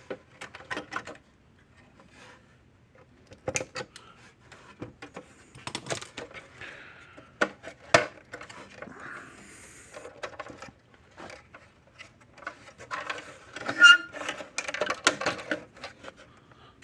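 Irregular small clicks and light metallic clatter of hand-work: needle-nose pliers pushing wire terminals onto the tabs inside an electric fence charger, with parts and tools handled. There is a sharp click about eight seconds in and a busier run of rattling near the end.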